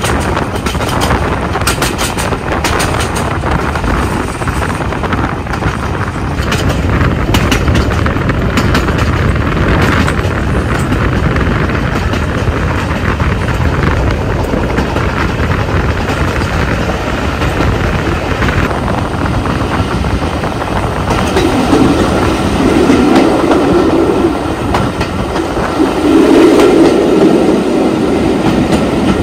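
Jacobite steam train's carriages running along the West Highland line, heard from the coach: a steady rumble with wheels clattering over rail joints. It grows louder near the end.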